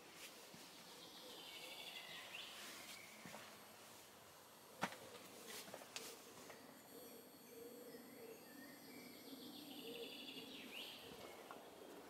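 Faint woodland quiet with a songbird singing the same short trilled phrase twice, about eight seconds apart. A sharp click just before halfway through is the loudest sound.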